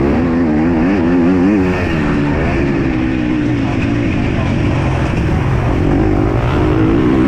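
Motocross dirt bike engine racing under hard throttle changes, its pitch rising and falling repeatedly as the rider works the throttle and gears. The pitch drops and evens out about two seconds in, then climbs and wavers again near the end.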